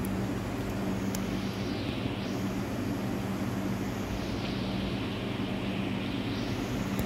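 Steady low rumble of engine noise, with a hiss that slowly swells and fades every couple of seconds.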